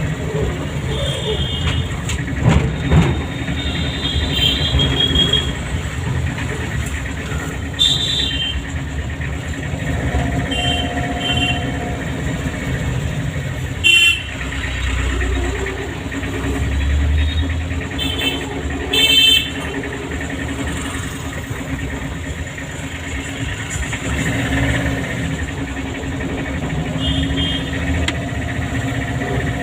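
A car's engine and tyres run steadily while driving through town traffic. Other vehicles' horns beep briefly, about nine times.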